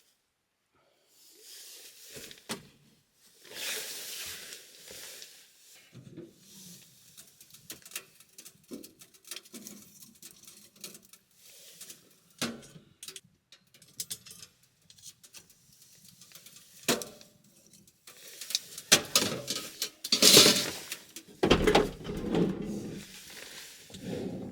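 Things being handled and set down at close range: scattered knocks, clicks and rustling, busiest and loudest in the last few seconds, with a couple of heavier thumps.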